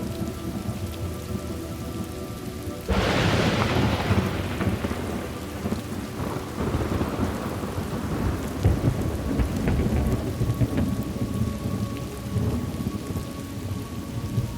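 Thunderstorm: rain falling steadily, then a sudden thunderclap about three seconds in that rumbles on and slowly fades over the following seconds.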